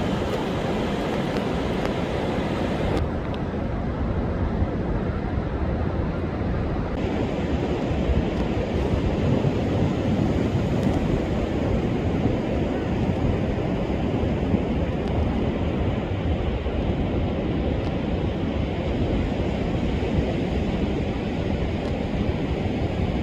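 Rough sea surf breaking continuously on a sandy beach under a wind-and-wave advisory, a steady deep rush of water.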